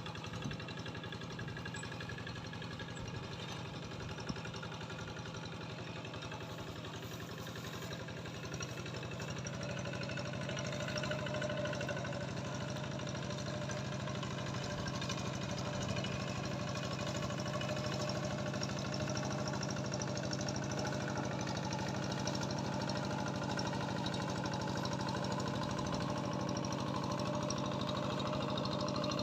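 An engine running steadily with an even low hum, growing a little louder about ten seconds in.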